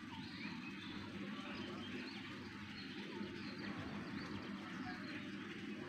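Small birds chirping, many short rising and falling calls one after another, over a steady low rumble.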